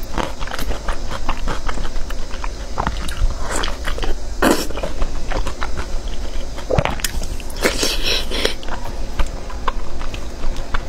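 Close-miked chewing and biting: wet mouth smacks and clicks of someone eating pork belly, with a few louder bites scattered through.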